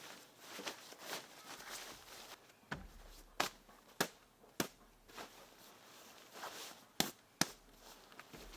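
Faint rustling handling noise broken by six sharp clicks: four spaced about two-thirds of a second apart, then two close together near the end.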